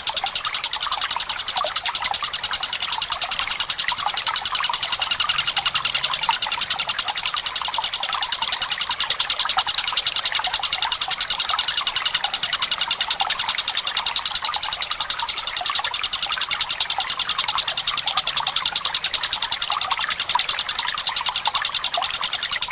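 Tengkek buto kingfisher calling in a long, unbroken, very fast rolling trill, over trickling water.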